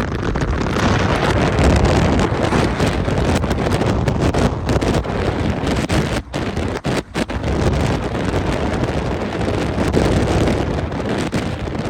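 Wind buffeting the phone's microphone as a loud, dense rush, with two brief dips about six and seven seconds in.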